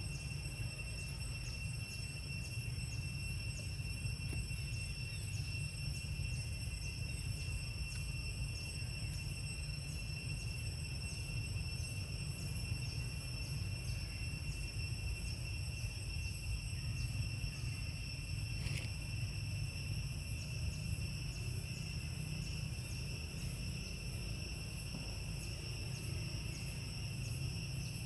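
Steady high-pitched insect chorus, an unbroken whine with faint regular ticking, over a constant low rumble.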